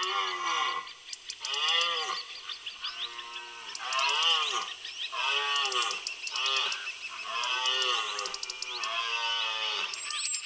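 Many animals calling over one another, each call arching up and down in pitch and repeating about once or twice a second.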